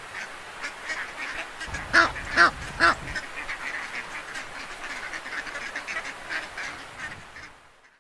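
A flock of ducks quacking, many short calls overlapping, with three louder quacks about two seconds in; the calls fade out near the end.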